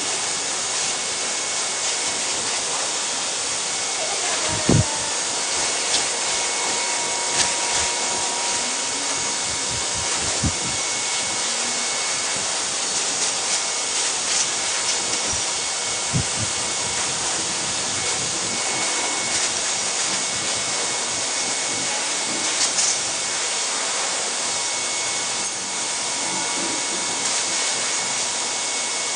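Blow dryer running steadily while drying a freshly bathed dog: a constant rush of air with a faint steady whine. A few dull knocks now and then.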